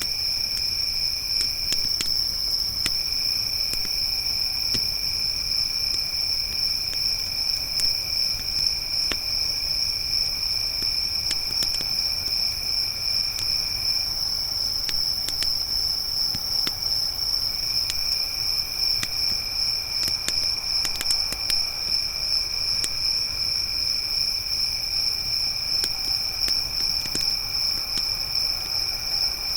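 A chorus of crickets trilling continuously at a high pitch, with a second, lower insect trill that drops out twice. Scattered sharp pops and crackles of a wood campfire sound throughout.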